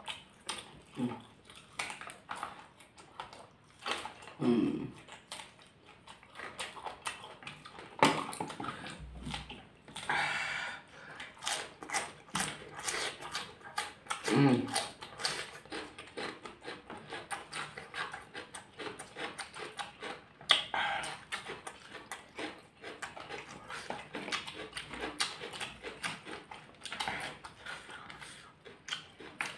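Close-miked eating sounds of two people eating rice and vegetables with their hands: chewing and wet mouth clicks, with bites of raw cucumber. A short low hum comes twice, about four seconds and about fourteen seconds in.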